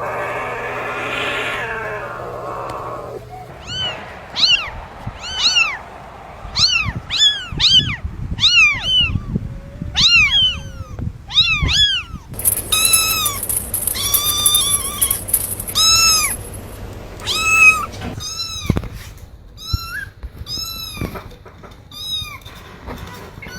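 Kittens mewing over and over: short, high-pitched arched mews, several a second, starting a few seconds in.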